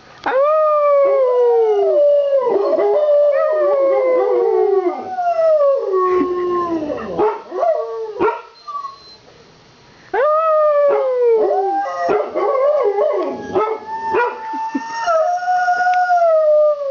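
Two dogs howling together in long, falling-pitch howls that overlap each other, set off by passing fire truck sirens. They howl in two bouts with a short pause just past the middle.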